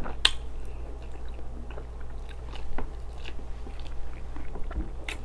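Chewing of a deep-fried rib: mouth sounds with scattered crunchy clicks, the sharpest just after the start and near the end.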